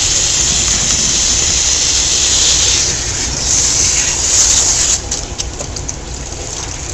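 Water running from a sink sprayer in a steady hiss, becoming quieter about five seconds in.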